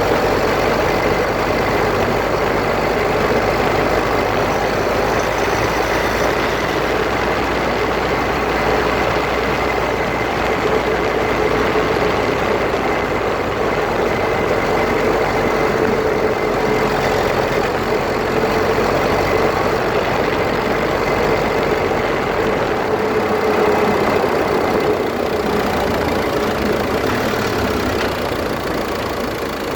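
Grinding noise from the front differential of a Land Rover Freelander 2, recorded up close, with a steady whine that wavers slightly in pitch over a dense mechanical rumble. The deepest part of the rumble falls away about three quarters of the way through.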